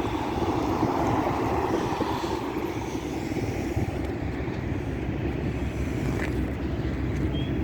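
Freight train rolling past close by: a steady rumble of wheels on the rails.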